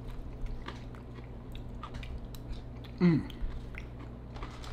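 A person chewing deep dish pizza close to the microphone, with scattered soft wet clicks and smacks of the mouth. About three seconds in there is a brief vocal sound that falls in pitch.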